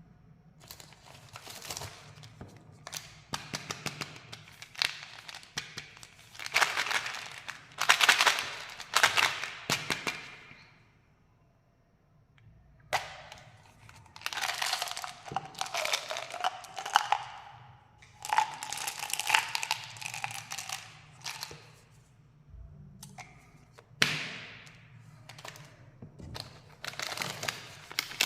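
Plastic candy wrappers crinkling and tearing in repeated bursts of crackling, with a quiet pause of about two seconds partway through.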